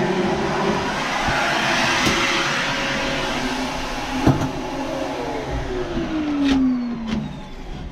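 Vacuum cleaner running loudly while sucking lint out of a clothes dryer vent duct. A click comes about four seconds in, then the motor's pitch falls steadily over about two seconds as it winds down.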